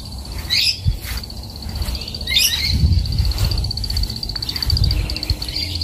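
A bird gives two short harsh calls, about half a second and two and a half seconds in, over a steady high, rapidly pulsing insect trill. A low rumble rises in the middle.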